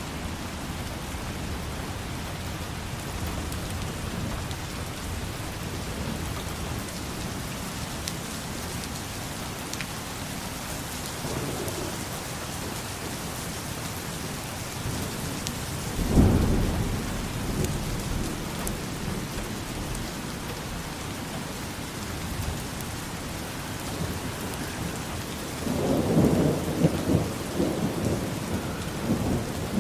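Steady rain falling, with a sudden low clap of thunder about halfway through and a longer, uneven rolling rumble near the end.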